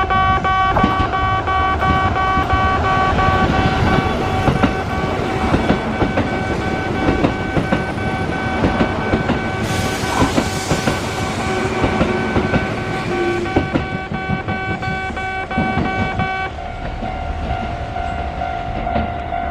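A Kintetsu train passes through the station, its wheels clacking over the rail joints. A steady, multi-toned sound runs over it and cuts off about sixteen seconds in.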